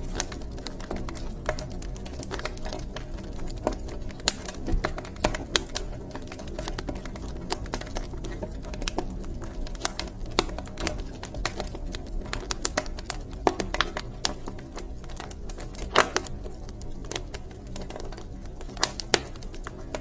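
Wood fire crackling in a fireplace: irregular sharp pops and snaps over a low, steady rumble of the flames, with a few louder snaps scattered through.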